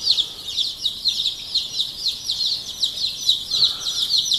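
A brood of about 150 young chicks peeping together: a dense, continuous chorus of short, high, downward-sliding cheeps.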